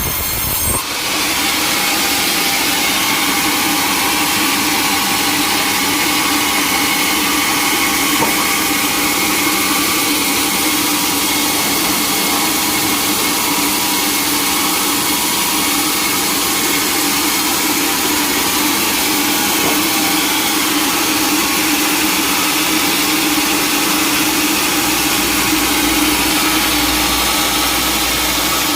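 An engine running steadily, a dense drone with a few fixed tones. It takes over from a different sound with a sudden change just under a second in.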